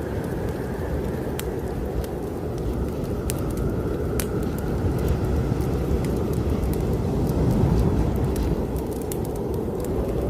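Blizzard wind howling and gusting, its pitch sliding up and down and swelling louder near the end, over the scattered pops and crackles of a wood fire burning in a fireplace.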